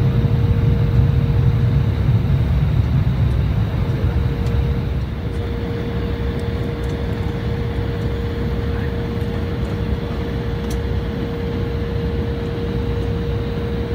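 Embraer E175 jet engines heard from inside the cabin: a steady low rumble with a constant whine, easing slightly about five seconds in.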